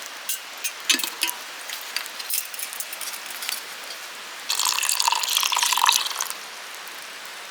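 Wood fire crackling and popping in a fire stand, with sharp snaps over a steady hiss. About halfway through, a louder hissing rush lasts nearly two seconds.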